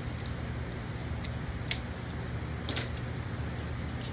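A few sharp plastic clicks from a Beyblade top and launcher being handled and fitted together, over a steady low background hum.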